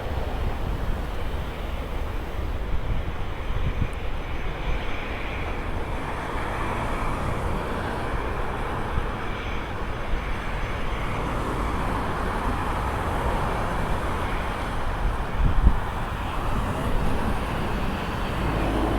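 Jet airliner's engines, a continuous roar that swells and eases through the middle, over wind rumbling on the microphone with one stronger gust about three-quarters of the way in.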